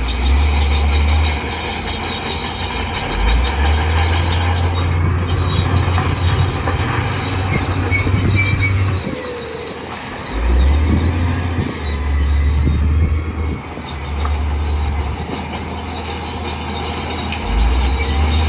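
Crawler bulldozer working: a deep diesel rumble rising and falling with the load, and high squealing from its steel tracks.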